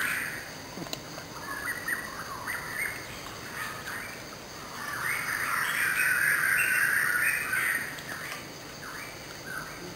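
Birds chirping and calling in chattering bursts, loudest from about five to eight seconds in.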